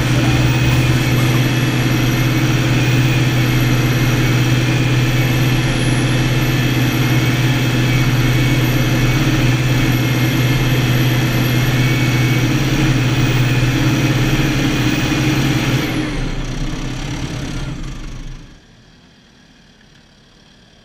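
Fendt 312 Vario tractor's diesel engine running steadily under load while ploughing, with a wavering high whine above it. The engine sound fades and then drops away sharply near the end.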